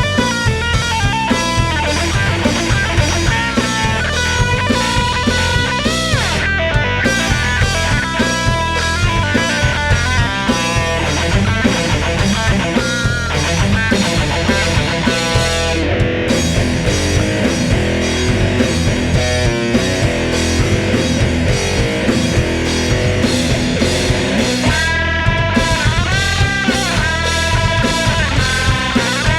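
Heavy doom metal played by a band: electric guitars, bass and drum kit, with a lead line whose notes bend up and down.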